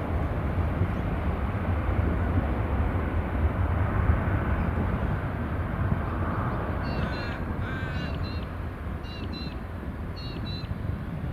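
Jet engines of a departing Airbus A320-200, a low rumble that slowly fades. A bird caws several times in the second half.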